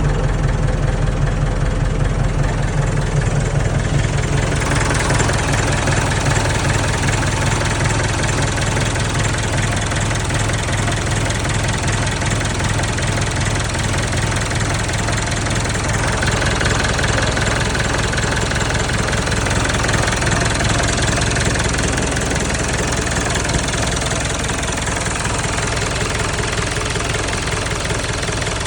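Landini Blizzard 65 tractor's diesel engine idling steadily with a knocking clatter, its sound turning harsher and brighter about five seconds in.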